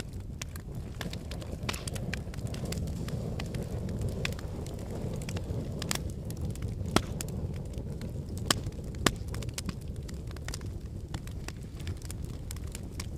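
Wood fire of burning logs in a fireplace, crackling steadily over a low rumble of flames, with sharp pops about seven, eight and a half and nine seconds in.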